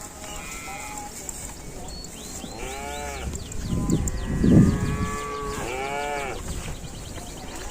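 Cattle mooing: a few short, high, wavering calls and one long held call, with a loud low rumble about four and a half seconds in.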